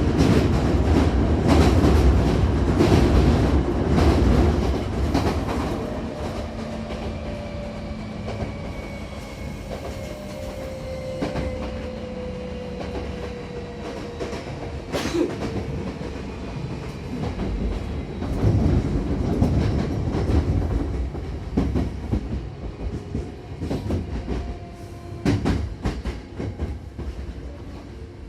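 Hankyu 7000-series electric train running between stations, heard from inside the car: steady rumble of wheels on rail with occasional clicks over rail joints. It is loudest for the first few seconds, then quieter.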